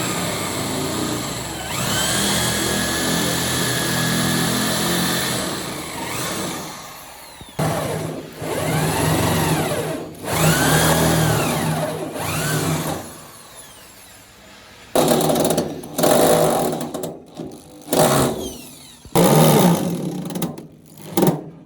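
A small electric power tool's motor runs steadily for several seconds, then is run in a few short spurts, each whining up in pitch and winding back down, and ends in several brief bursts.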